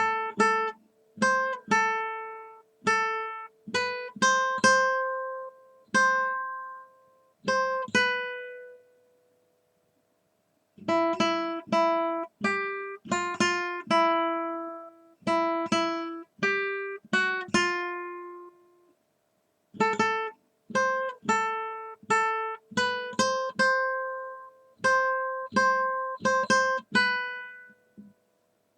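Acoustic guitar playing slow chords, each struck and left to ring out, in three phrases with short pauses between them.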